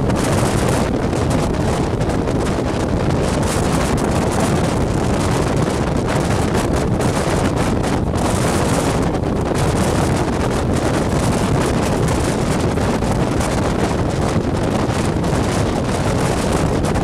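Steady rushing noise of a moving train, with wind buffeting the microphone.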